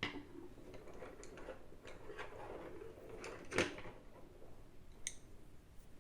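Small objects being handled on a table: irregular light clicks, taps and rustles, with one louder knock a little past halfway.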